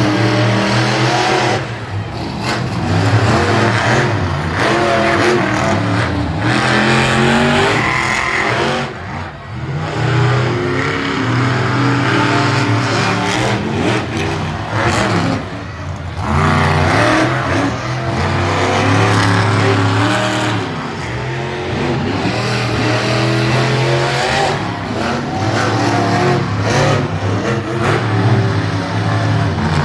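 Monster truck engine revving hard, its pitch repeatedly climbing and dropping as the throttle is worked, with brief lifts off the throttle about 9, 16 and 21 seconds in.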